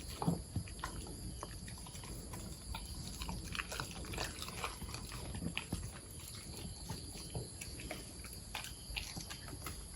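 A corgi eating from its bowl: irregular soft crunches, chewing and small clicks of kibble and snout against the bowl.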